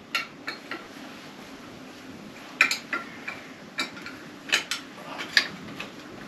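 Metal parts and hand tools clinking and tapping during work on a motorcycle front end: about ten sharp, irregular clinks with short ringing.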